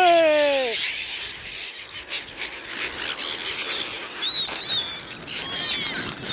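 A flock of seagulls squawking and flapping around the feeder, with short, high calls coming more often in the last couple of seconds.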